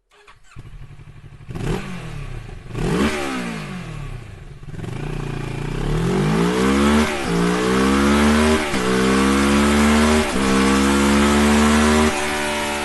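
Motorcycle with an Akrapovic aftermarket exhaust, starting suddenly: a couple of quick blips of the throttle, then hard acceleration through the gears, the note climbing and dropping at each of four upshifts a little under two seconds apart.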